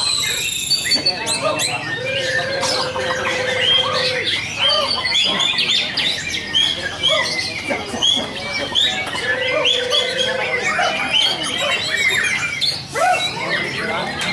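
Many caged white-rumped shamas singing and calling at once, a dense overlapping mix of quick chirps, squawks and whistled phrases. Two long, steady low whistled notes stand out, one about two seconds in and another near the ten-second mark.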